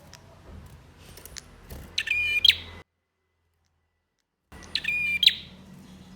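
Male prinia (prenjak) singing: a loud, rapid, ladder-like phrase of about half a second, given twice, with a stretch of dead silence between the two.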